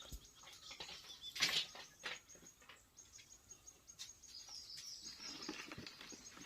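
A few short knocks and rustles of something being handled, the clearest about a second and a half in, with small birds chirping in a quick run a little past the middle.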